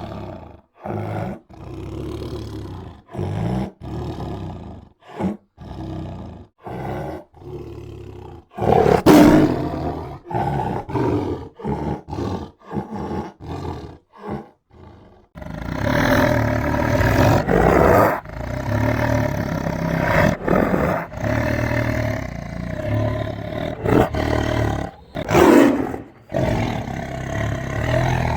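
Tiger growling and roaring: a run of short, separate roars about one or two a second, with a loud one about nine seconds in, then from about halfway a long continuous stretch of roaring with another loud roar near the end.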